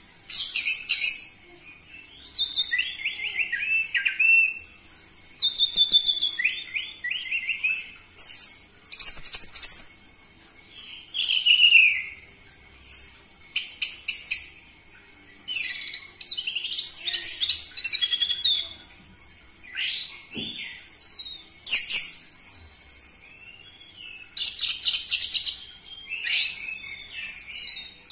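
Orange-headed thrush (anis merah) singing: rapid, varied high whistles, slurs and chattering notes delivered in phrases of one to two seconds with short pauses between.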